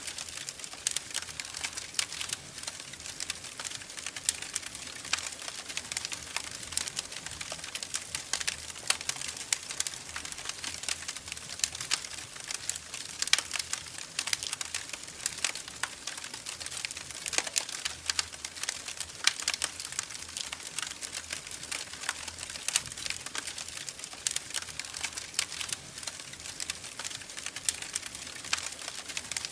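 Wood fire in a fireplace crackling: a steady hiss with dense, irregular sharp pops and snaps, a few louder ones standing out.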